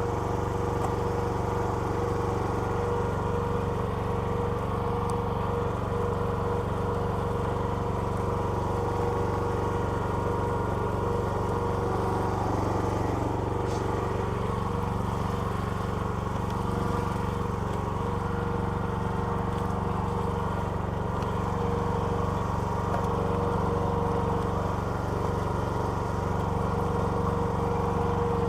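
A petrol engine idling steadily at an even speed, with no change in its pitch.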